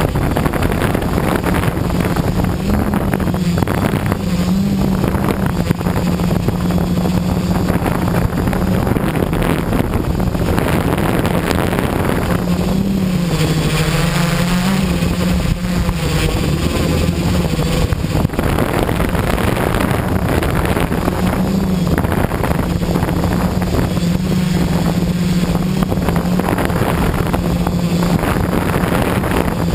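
Quadcopter's electric motors and propellers buzzing steadily in flight, with wind noise on the microphone. The hum's pitch wavers up and down as the motor speeds shift, most noticeably about halfway through.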